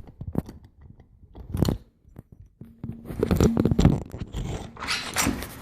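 Irregular knocks, clicks and crunchy rustling, thickest about three to four seconds in and again near the end.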